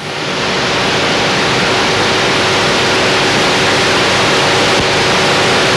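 Steady loud hiss with a faint constant hum: background noise of an old 1959 film soundtrack, running unchanged between the narrator's lines.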